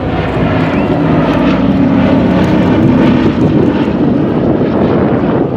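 Propeller-driven airplane flying past with a loud, steady engine drone.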